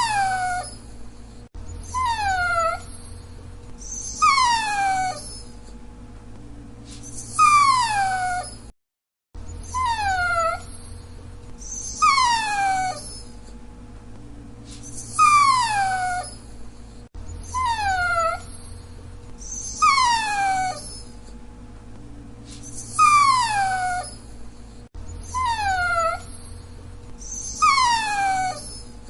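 Dachshund whining: about a dozen short, high whines, each falling in pitch, repeating every two to three seconds over a faint steady hum.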